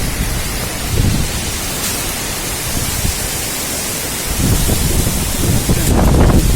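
Strong wind blowing in gusts with rain, a steady rushing hiss with low rumbling surges about a second in and again, louder, over the last two seconds.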